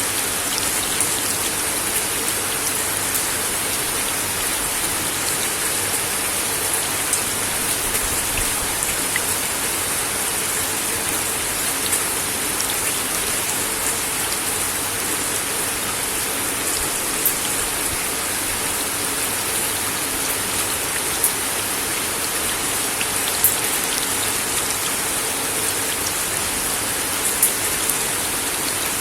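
Steady rain falling on a wooden deck: an even hiss with scattered louder drop ticks.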